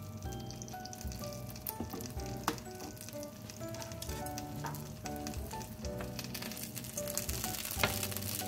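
Shrimp gyoza frying in oil in a pan, sizzling as sesame oil is poured over them to crisp the wings. The sizzle grows louder toward the end, with an occasional sharp pop, over light background music.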